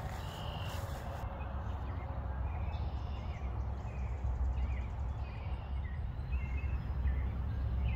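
Birds chirping here and there, short calls, over a steady low rumble of outdoor background noise.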